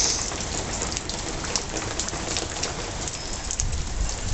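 Steady rain falling, with many single drops pattering and ticking close by. A short, louder hiss comes right at the start, and a few low bumps come near the end.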